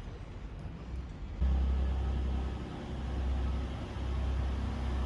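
Diesel train engine idling with a steady low rumble. It comes in abruptly about a second and a half in, over quieter outdoor ambience.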